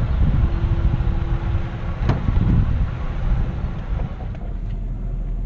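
Truck running, heard from inside the cab: a steady low rumble, with a single knock about two seconds in.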